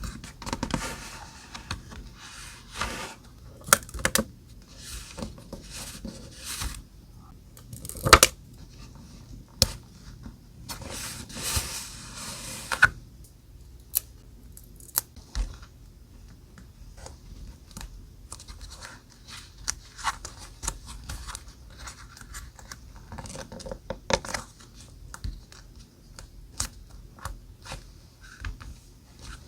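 Close-up paper crafting sounds: paper and stickers being handled and scraped, with scattered sharp clicks and taps and a denser stretch of rustling about eleven to thirteen seconds in.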